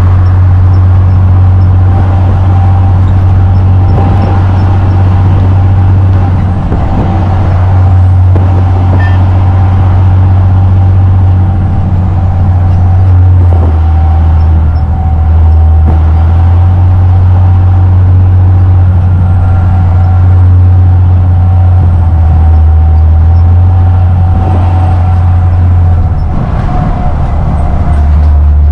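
A truck's diesel engine droning steadily while driving, heard loudly from inside the cab. Its deep hum shifts pitch in steps a few times.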